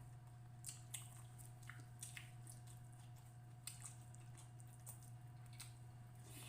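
Faint wet eating sounds of someone chewing sauced fish and rice: scattered soft smacks and clicks about once a second, over a steady low hum.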